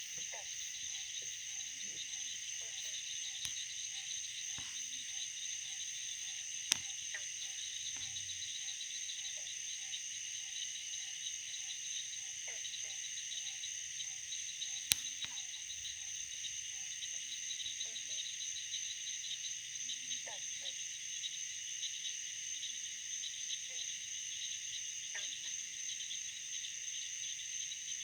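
Steady, high-pitched chorus of crickets, with a lower, evenly pulsed call for roughly the first ten seconds. Two sharp clicks stand out, about a third of the way in and near the middle.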